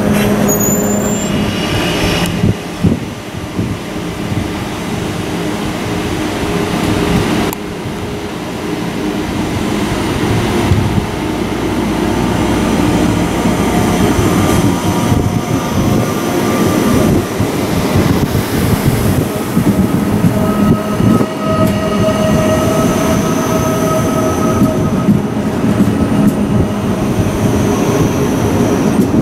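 Deutsche Bahn ICE T (class 411) electric train rolling slowly past along a station platform: a steady rumble of wheels on rail with whining tones from the drive and squealing from the wheels, getting a little louder after the first several seconds.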